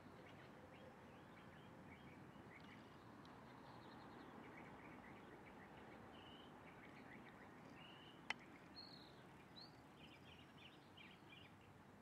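Faint, scattered chirps of small birds over steady background noise, with one sharp click about eight seconds in, the loudest sound.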